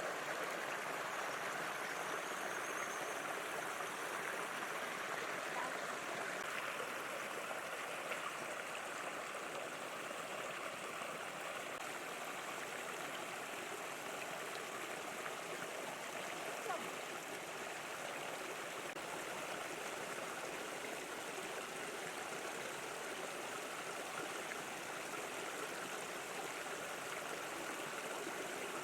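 Steady rush of flowing water, even throughout, with one faint tap about sixteen seconds in.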